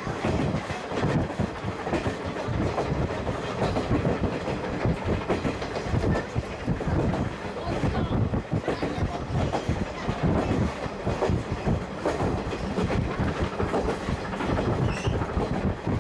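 Running noise inside a vintage passenger coach hauled by a steam locomotive: the wheels clatter over the rail joints and the car body rumbles steadily at speed.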